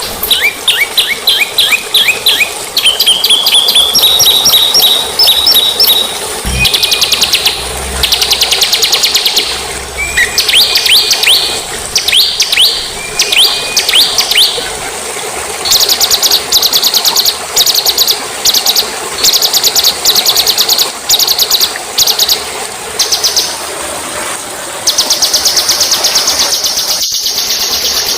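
Songbird song from a bird-training (masteran) recording: quick series of sliding whistled notes, fast trills and rapid chattering note runs following one another with short gaps, ending in a steady buzzy trill.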